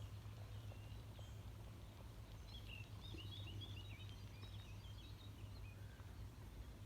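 Faint outdoor ambience: a small bird twitters in a quick run of high chirps for a couple of seconds midway, over a steady low hum.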